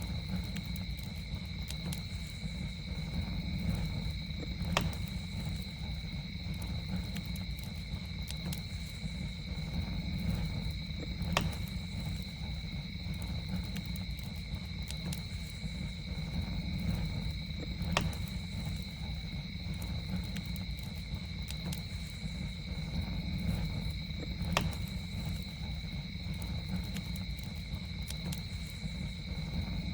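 Campfire burning with a steady low rumble and a sharp pop about every six to seven seconds, over a continuous high-pitched two-note drone.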